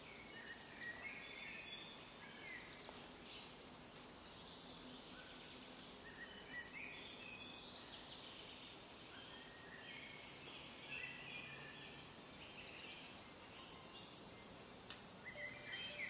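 Birds chirping, short high calls and trills scattered throughout, over a faint steady background hiss.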